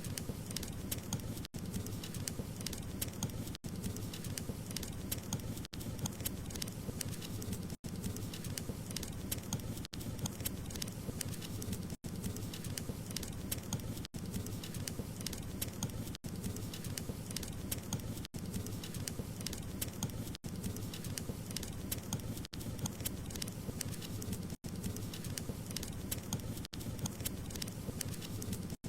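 Wood fire burning in a fireplace: a steady low rumbling hiss with frequent small crackles and pops, broken by brief silent gaps about every two seconds.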